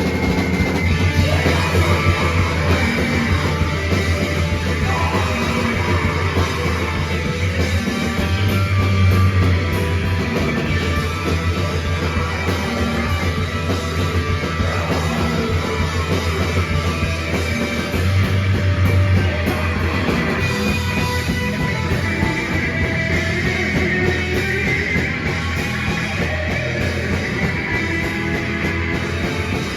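A rock band playing live at full volume: electric guitars and a drum kit in a dense, continuous song.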